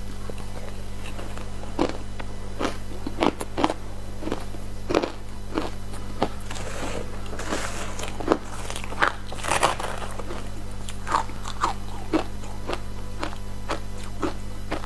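Close-up crunching of ice dusted with matcha powder being bitten and chewed: irregular sharp crunches, busiest in the middle, over a steady low hum.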